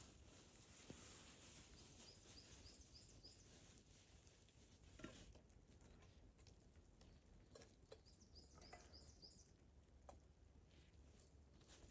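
Quiet, faint wilderness hiss in which a small bird calls twice, each time a quick run of about six high chirping notes. A few faint clicks and snaps are also heard.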